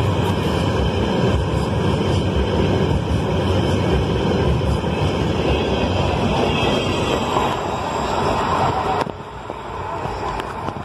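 Freight train wagons loaded with concrete sleepers rolling past close by: a steady rumble of wheels on rail. About nine seconds in the sound drops suddenly to a quieter, more distant train rolling.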